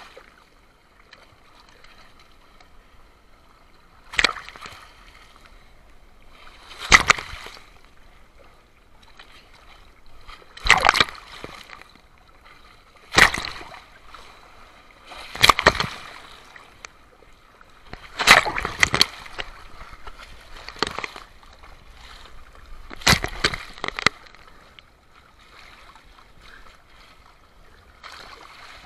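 Sea waves breaking and splashing in separate surges, about one every two to three seconds, with a low wash of water between.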